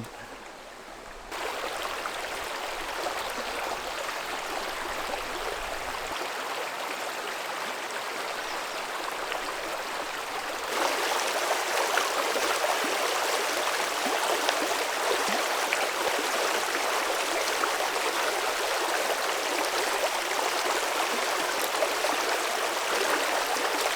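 Creek water running and trickling over rocks, a steady rushing hiss that steps up in loudness about a second in and again near the middle.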